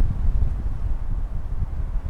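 Snowstorm wind gusting, buffeting the microphone in an uneven low rumble, with a fainter rush of wind through swaying trees.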